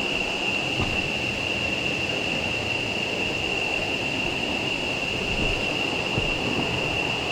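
Steady rushing of a jungle river, with a steady high-pitched whine running over it.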